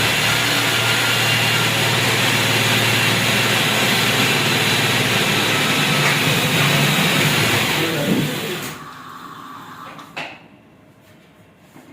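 An electric power tool's motor running steadily at full speed, then switched off about eight and a half seconds in and winding down, with a single sharp click about a second and a half later.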